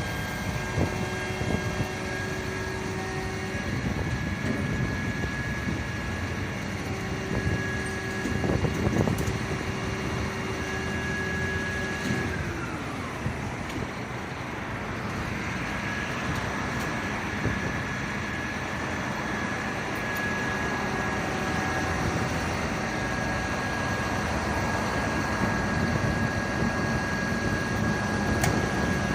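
Fire truck running with a steady mechanical whine over the engine noise. The whine drops in pitch about halfway through, comes back, and drops again at the end, as the engine or pump winds down.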